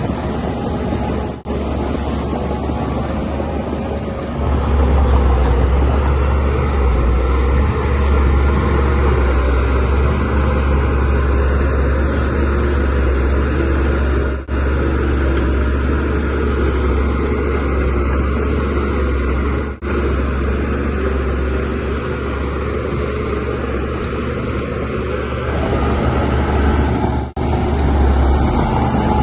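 Bulldozer diesel engine running steadily under load, with a deep low hum. It grows louder about four seconds in, and the sound cuts out for an instant four times.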